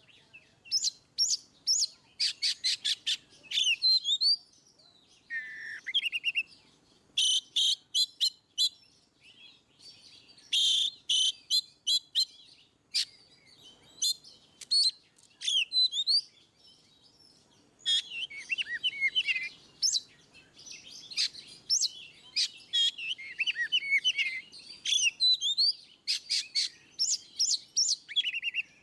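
Oriental magpie-robin (kacer) singing its full 'ngeplong' song: loud, varied phrases of rapid clicking chirps and sweeping whistles, with short pauses between phrases.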